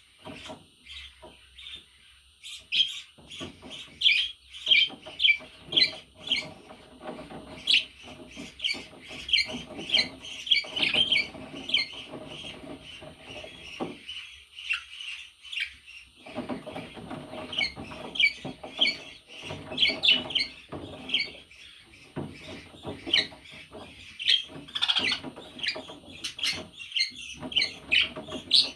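Budgerigar chirping and warbling: a rapid, continuous string of short high chirps mixed with lower chattering notes, with a brief pause about halfway through.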